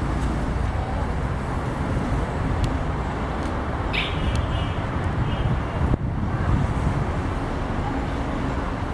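Steady low outdoor rumble of background noise, with one brief high chirp about four seconds in.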